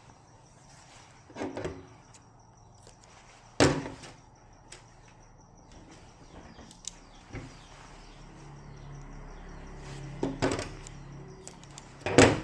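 A series of separate knocks and clacks, about five in all, the one near the end the loudest, over a faint low hum.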